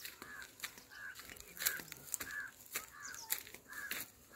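A bird calls over and over in short, even notes, about two a second. Scattered crunches and clicks of footsteps on a dry, grassy dirt path come between the calls, a few of them louder than the calls.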